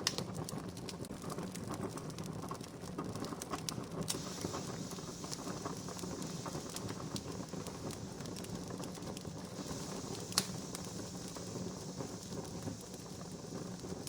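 Wood fire crackling, with scattered sharp pops over a steady hiss; one louder pop about ten seconds in.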